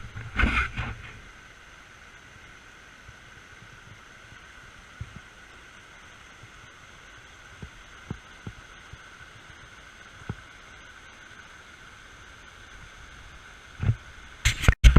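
Steady faint rush of a creek's water spilling over rocks. Low wind or handling thumps in the first second, a few small ticks, and a cluster of loud knocks from handling the camera near the end.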